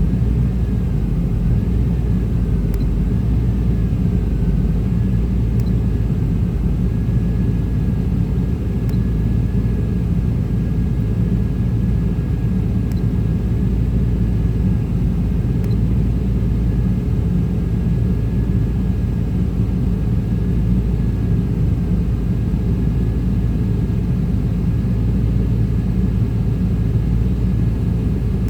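A 1995 Chevy Tahoe's 5.7-litre V8 idling, a steady low rumble with a faint thin high whine above it. The truck has a rough idle that the owner puts down to a throttle position sensor the computer cannot read and a suspected EGR problem.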